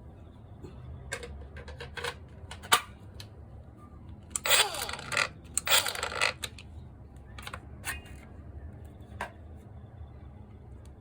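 Small hard parts of a disassembled cordless disc grinder being handled: scattered clicks and knocks, one sharp one about three seconds in, and two longer rattling scrapes a little after the middle.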